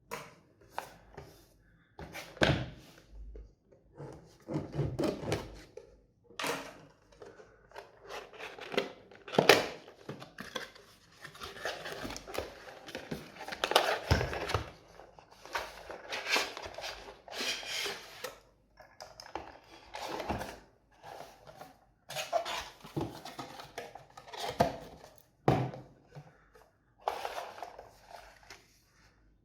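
Unboxing an Intel Core i5-13400F retail box: irregular clicks, knocks and rustles of the cardboard box and plastic packaging being handled and opened.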